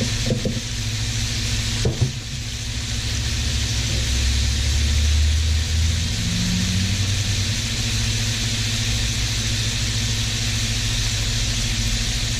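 Pieces of braised pork leg with chili, garlic and a little broth sizzling steadily in a frying pan, with a couple of short knocks of a utensil against the pan near the start. A steady low hum runs underneath, swelling for a couple of seconds around the middle.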